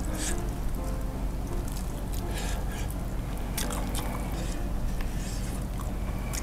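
Close-miked eating of crispy fried chicken coated in spicy samyang sauce and sambal: wet, sticky chewing and mouth sounds, broken by a few sharp crisp bites.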